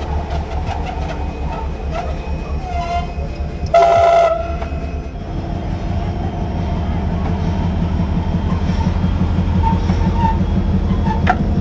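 Passenger train running on the track with a steady low rumble and a rhythmic rattle, a brief loud shrill blast about four seconds in, and thin squeals now and then.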